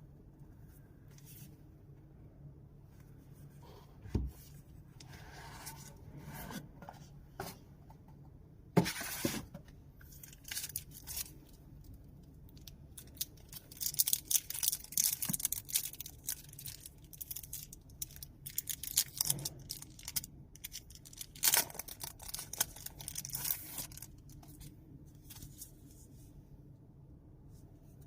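Hands unpacking a boxed wristwatch: packaging and wrapping rustling and crinkling in irregular bursts, with a few sharp clicks and knocks.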